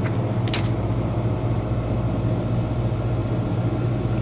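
Steady low mechanical hum over a constant background rumble, with one short click about half a second in.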